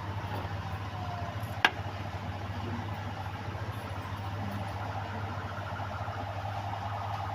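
A motor engine idling steadily, with one sharp click about a second and a half in.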